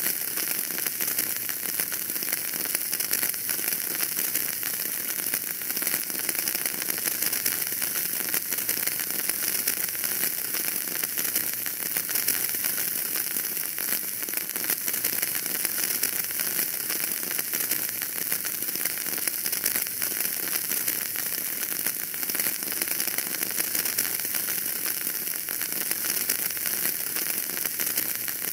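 Wood fire burning in a fireplace, crackling steadily: a dense run of small crackles and pops over a soft hiss.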